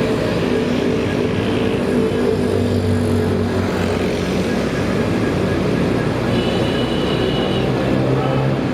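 Motorcycle engine running steadily as the bike rides along a city road, over a steady wash of traffic and road noise.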